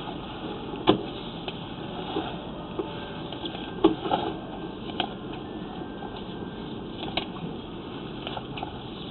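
Sewer inspection camera and its push cable being fed along a main sewer line: a steady rushing noise with a few sharp knocks, the loudest about a second in and about four seconds in.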